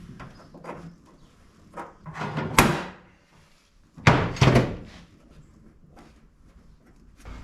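A series of knocks and thumps from parts being handled and set in place in an aluminum boat hull. The loudest thumps come about four seconds in, after a sharp knock a little earlier.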